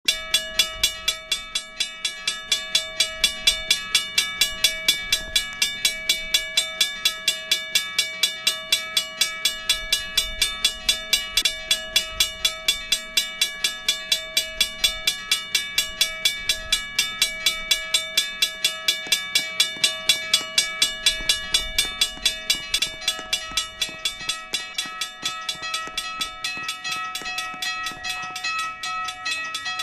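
US&S teardrop railroad crossing bell ringing under test: rapid, evenly spaced strikes, about three a second, each leaving a metallic ring that carries into the next. It starts suddenly from silence, and the strikes grow a little softer over the last few seconds.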